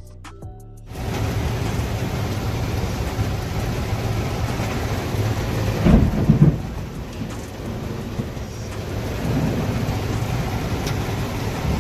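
Heavy rain starts abruptly about a second in and runs steadily, with a deep low rumble underneath. A louder rumble comes about six seconds in.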